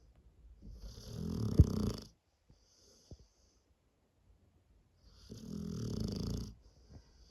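A Presa cross Dogue de Bordeaux dog snoring: two long snores, each about a second and a half, some four seconds apart, each followed by a softer breath.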